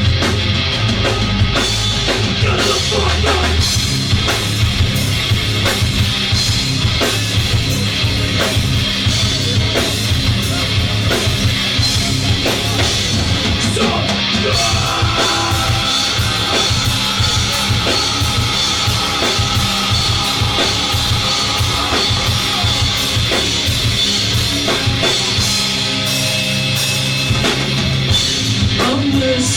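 Rock band playing live: a drum kit beating steadily under electric guitar, loud and without a break.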